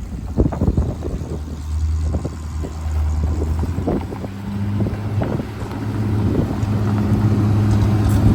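Ford grain truck's engine running, its pitch stepping up at about halfway through and holding there, with wind buffeting the microphone.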